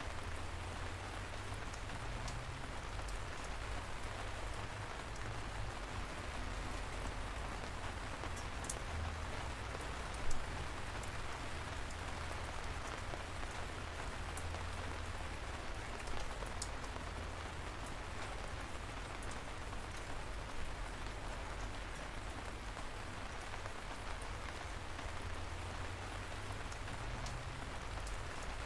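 Steady light rain with a constant hiss and scattered individual drops ticking, over a low steady rumble. One drop lands louder about ten seconds in.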